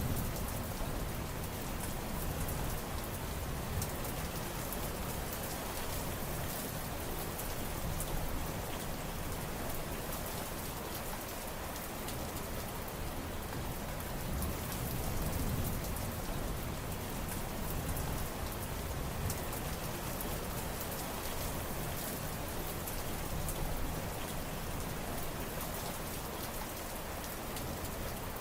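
Steady heavy rain falling and pattering on surfaces, many individual drops ticking over a continuous hiss.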